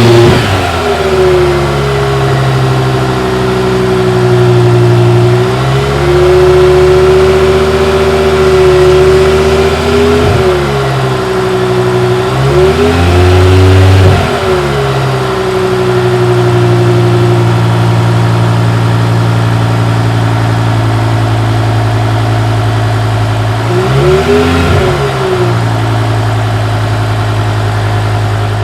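BMW M6's V10 engine running at idle, its revs rising and falling back several times, on its first run after the throttle actuators were replaced.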